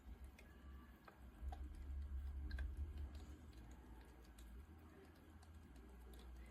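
Faint, scattered light clicks and taps over a low rumble that swells between about one and three seconds in.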